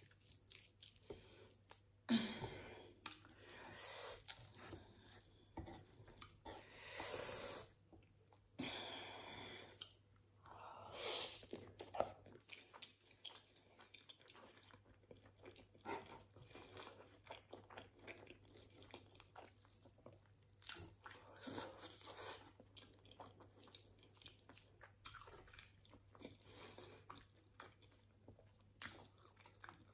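A person chewing mouthfuls of grilled meat close to the microphone: wet chewing and mouth noises in irregular bursts, louder now and then, with the loudest about seven seconds in.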